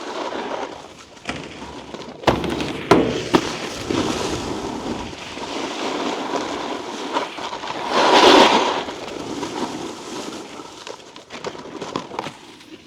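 Snowboard sliding over icy, slushy snow, its edges scraping steadily. There are three sharp knocks a couple of seconds in and a louder, longer scrape about eight seconds in.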